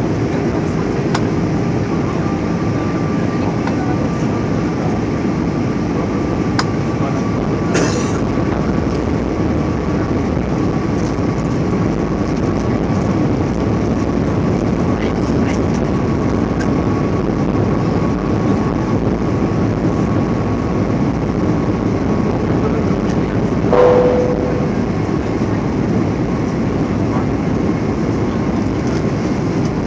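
Steady engine and airflow noise inside an Airbus A320's passenger cabin in flight, with a faint steady whine over it. A short knock with a brief tone sounds about three-quarters of the way through.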